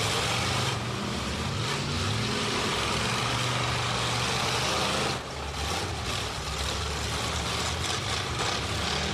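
Several demolition derby cars' engines running and revving together, a loud steady din that dips briefly about five seconds in.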